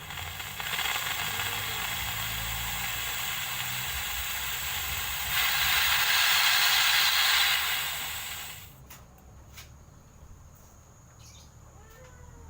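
Steam hissing steadily out of a patchouli-oil distillation still being flushed with plain water. It gets louder about five seconds in and cuts off sharply near the nine-second mark.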